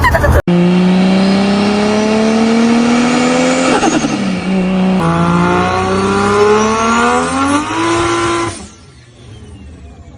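Toyota Supra engines accelerating hard: the engine note climbs steadily, drops briefly with a short turbo flutter chatter at the shift about four seconds in, then a second car pulls with another rising note. The engine sound cuts off abruptly near the end.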